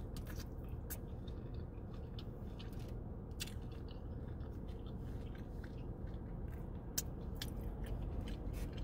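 Close-up eating sounds: biting into and chewing a birria taco, with scattered irregular mouth clicks over a steady low hum.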